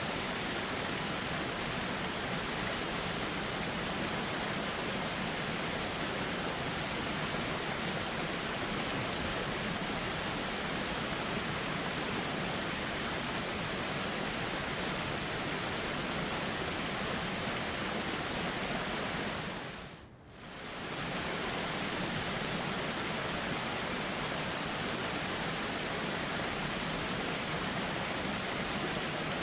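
Steady rush of flowing river water. About twenty seconds in it fades down briefly and comes straight back, like the join of a looped recording.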